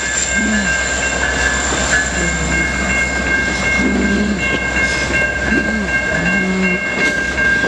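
Freight train rolling through a grade crossing: a steady low rumble with wheel clatter. Under it, a Safetran Type 3 electronic crossing bell rings on its low tone, heard as steady high tones throughout.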